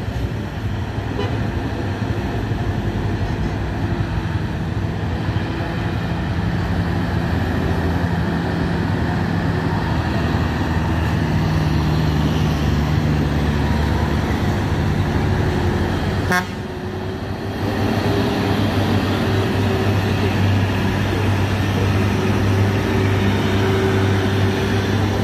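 Heavy diesel trucks' engines labouring steadily up a steep climb in low gear, with a brief click and dip in the sound about sixteen seconds in.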